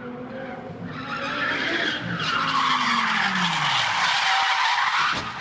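A car's engine dropping in pitch as its tyres skid loudly for about three seconds, the skid cutting off suddenly near the end.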